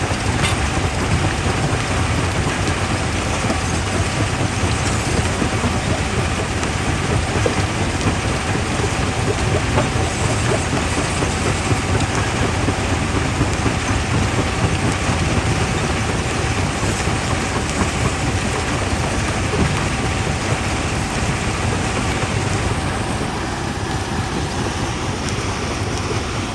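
Primary jaw crusher running and crushing quarry rock: a steady heavy rumble with a continuous scatter of small stone knocks.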